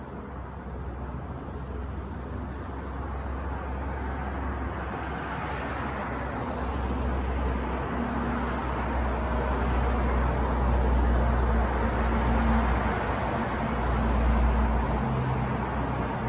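New York street traffic noise with a deep rumble, swelling gradually over several seconds and peaking twice in the later part as traffic draws near.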